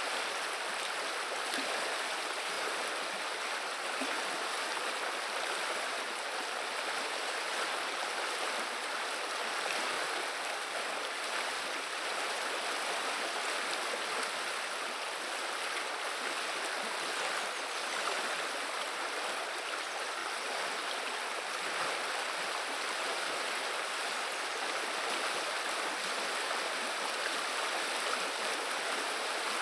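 Flowing river water babbling steadily, an even rushing with no pauses or changes.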